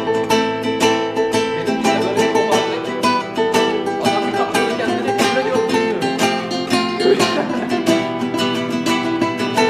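A plucked string instrument, guitar-like, improvising a quick stream of plucked notes.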